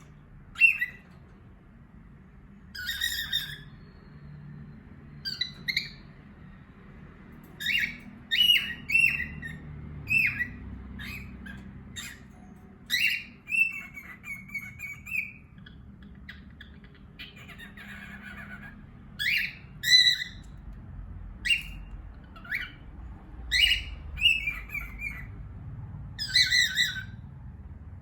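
Pet cockatiels and a budgerigar calling: a string of short, sharp squawks and chirps, some drawn out into brief warbling whistles, coming every second or so.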